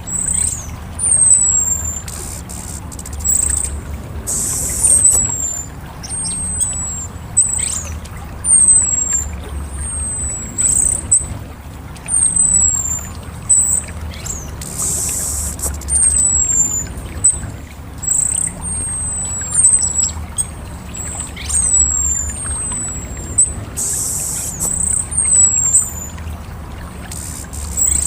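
Orange-headed thrush giving thin, very high, down-slurred calls about once a second, with three brief hissing bursts among them, over a low steady rumble.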